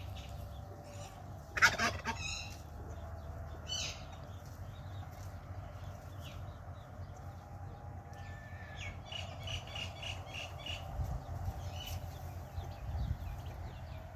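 Indian ringneck parrot calling: a loud harsh screech about a second and a half in, a few shorter calls after it, and a quick run of short repeated chirps later on, over a low steady rumble.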